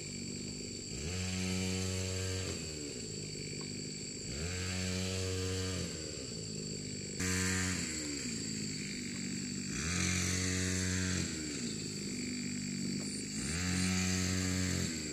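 A small engine revved up and let back down to idle over and over, about five times, each rise held for a second or two before dropping, as when a machine is worked in short bursts of throttle.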